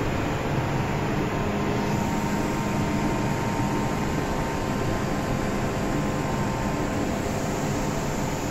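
Steady hum and hiss of an MTR M-train standing at an underground platform with its doors open, its air-conditioning and onboard equipment running, with a few faint steady tones in it.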